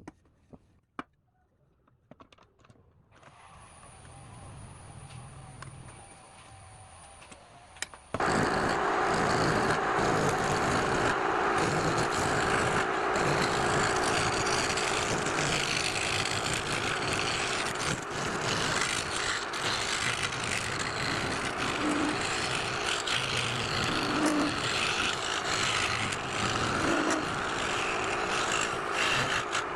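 Lathe running, then from about eight seconds in a turning tool cutting the spinning workpiece: a loud, continuous rough scraping.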